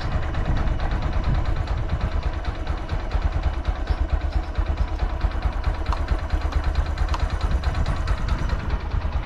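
Honda Grom JC61's 125 cc air-cooled single-cylinder four-stroke engine idling steadily on its stock exhaust, an even, rapid low pulsing with no audible abnormal noise.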